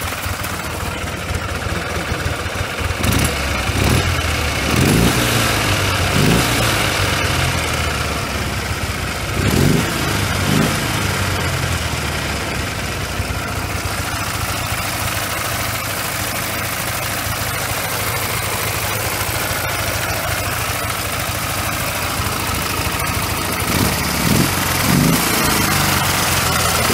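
Ural air-cooled opposed-twin motorcycle engine, assembled from worn and defective parts, idling steadily without knocking, with its throttle blipped several times. A light extra whirr and rustle comes from the engine, which the owner puts down to the generator drive gear.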